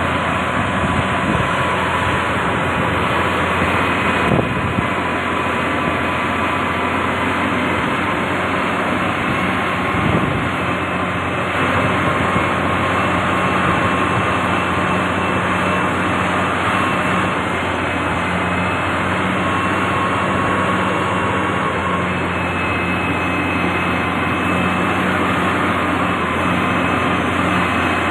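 Diesel engine of a heavy road-building machine running steadily, with a constant high whine over the engine drone.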